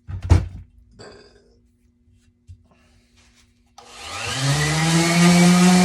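A knock and some handling noises, then an electric sander switched on about four seconds in, spinning up in pitch to a steady running hum, ready for sanding the wooden shelf.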